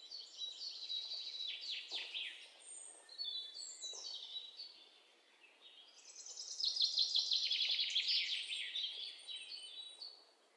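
Birds chirping and trilling in the background: high, quick notes throughout, loudest in a fast trill that falls in pitch from about six to nine seconds in.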